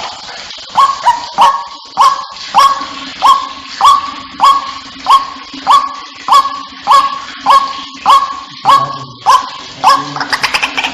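White-breasted waterhen call: a long series of loud, evenly repeated notes, each sweeping sharply up and then held, about one and a half notes a second, with a faint steady hum beneath. It is the lure call used to draw waterhens in.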